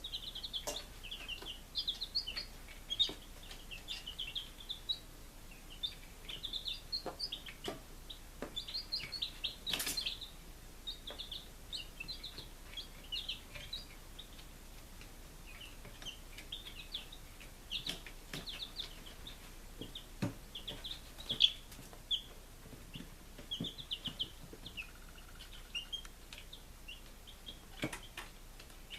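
Five-day-old chicks peeping, a constant run of short high chirps, with occasional sharp clicks or taps among them.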